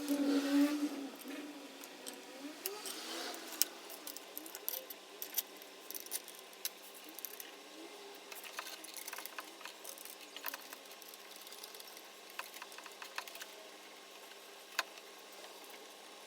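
Irregular light clicks, taps and rattles of small metal parts and hand tools being handled during engine work.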